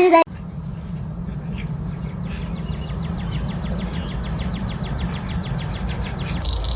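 A steady high-pitched insect trill, with fast, even pulsing in the middle seconds, over a steady low rumble.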